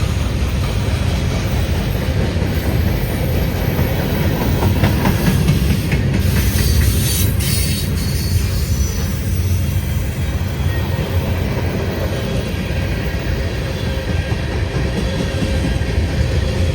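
Freight train cars rolling past close by: a steady heavy rumble with the clatter of wheels over rail joints.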